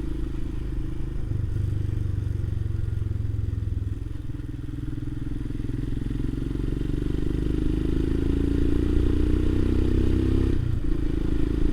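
Motorcycle engine running while riding. Its pitch climbs steadily over several seconds as it accelerates, then drops abruptly near the end.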